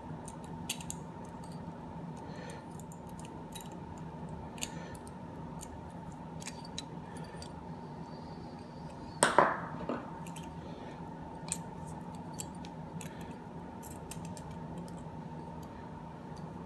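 Small metallic clicks and scrapes of a screwdriver and screw being worked into a porcelain lamp holder, with one louder knock about halfway through, over a steady low hum.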